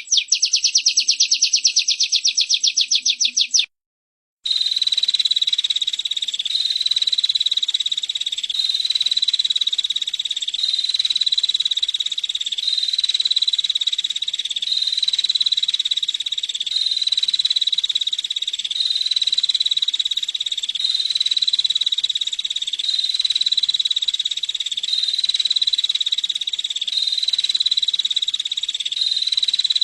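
Female prinia (prenjak) calling in a rapid, dry trill of fast ticking notes. After a brief cut about four seconds in, it gives way to a continuous high buzzing trill that swells and repeats about every two seconds.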